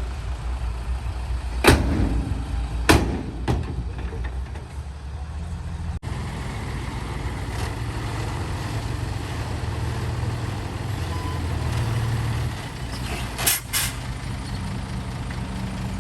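Dump truck's diesel engine running, with sharp bangs about two and three seconds in and another pair near the end. The engine note rises for a couple of seconds past the middle, then drops back.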